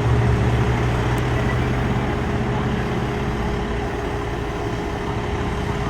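Diesel engine of a 2003 Pierce Dash aerial ladder fire truck running, with a low steady note that is strongest in the first two seconds and then eases off.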